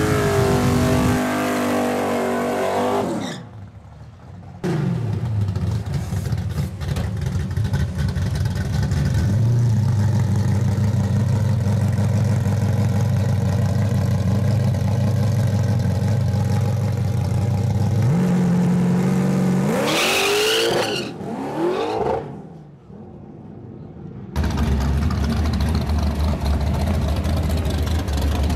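Drag cars' engines at a drag strip. After a brief revving at the start, a Fox-body Mustang's engine runs steadily at the line for about thirteen seconds, steps up in pitch, then launches away with a fast rising pitch that fades off. Near the end a different car's engine idles low.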